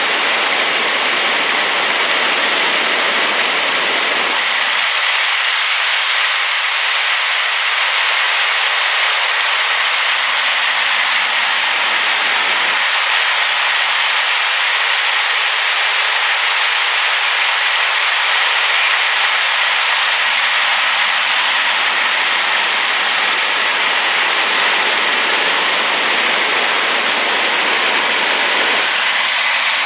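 Rain-swollen waterfall rushing steadily and loudly, a constant hiss-like roar of falling water.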